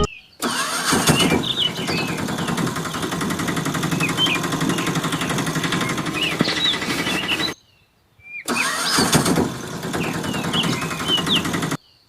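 Small electric motor of a homemade miniature tractor running steadily, in several clips separated by abrupt cuts to silence.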